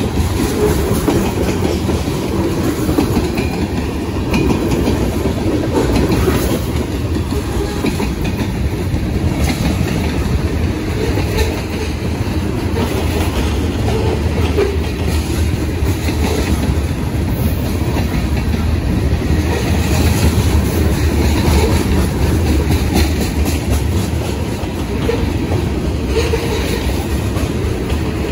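Freight train of covered hopper cars rolling past close by: a steady rumble of steel wheels on rail, with the clack of wheels over rail joints.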